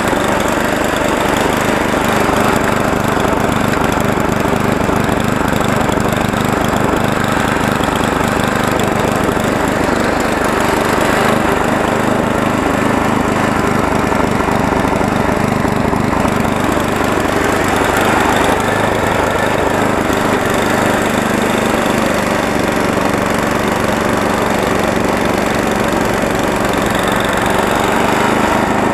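Small gasoline engine of a snowblower running steadily under load, with a continuous rough churning.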